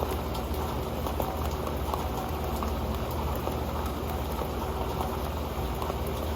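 Rain falling onto an old pan: a steady, dense patter of many small drops hitting it, with no letup.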